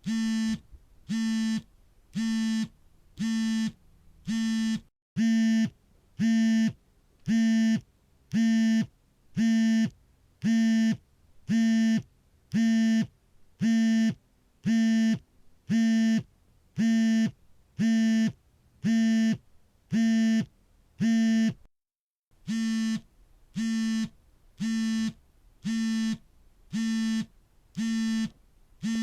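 Mobile phone vibrating for an incoming call: a pulsed electric buzz, about half a second on and a short pause off, repeating steadily. The buzzing breaks off briefly twice, about 5 seconds and about 22 seconds in, and is louder after the first break.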